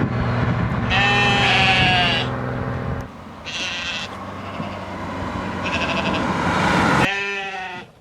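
Sheep bleating, about four separate bleats, over a low steady hum that stops about three seconds in.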